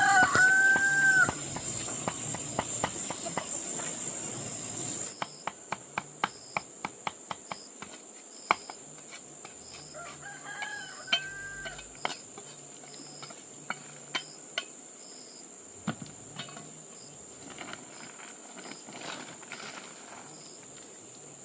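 A rooster crowing in short arched calls at the start and again around ten seconds in, over a steady high insect drone. From about five seconds on, a scatter of sharp clicks or knocks.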